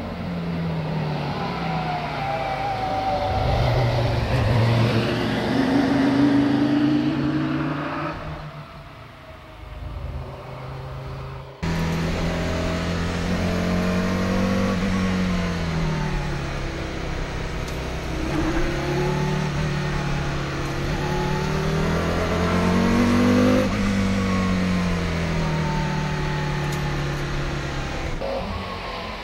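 Jiotto Caspita supercar's engine revving and easing off as it is driven through tight bends, its pitch rising and falling again and again. About eight seconds in it fades away, and about twelve seconds in it cuts in abruptly, loud again.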